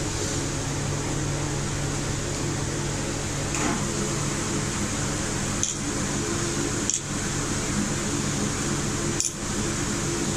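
A steady motor hum with an even hiss, like a running fan or kitchen appliance, broken by a few short clicks in the second half.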